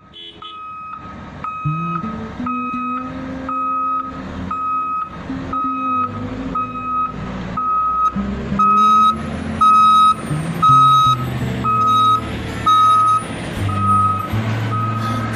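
Articulated dump truck's reversing alarm beeping steadily, about twice a second, over its diesel engine, which rises and falls in speed as the machine is driven in reverse.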